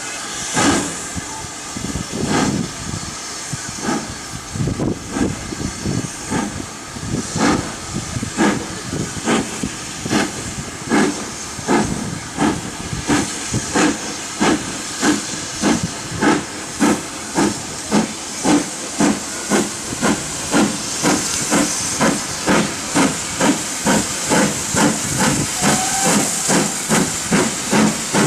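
Steam locomotive pulling away, its exhaust chuffing over a steady hiss of steam. The beats start slow and spaced and quicken steadily as the train gathers speed, reaching about two beats a second near the end.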